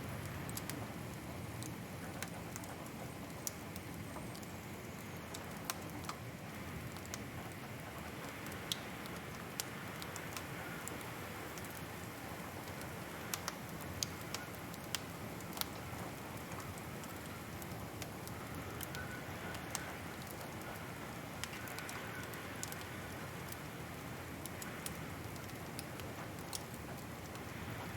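Wood fire crackling: irregular sharp pops and snaps, several of them louder, over a steady hiss.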